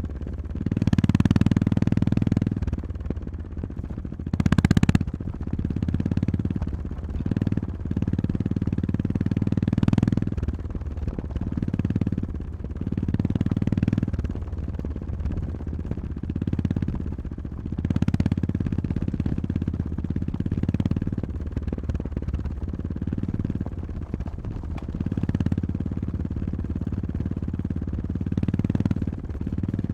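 Honda GB350-family 348 cc single-cylinder motorcycle engine being ridden, the throttle opening and closing every few seconds on a rough gravel forest road. A few sharp knocks from the rough surface, the loudest about five seconds in.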